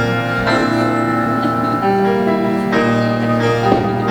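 Piano or keyboard music playing sustained chords, the instrumental introduction to a song.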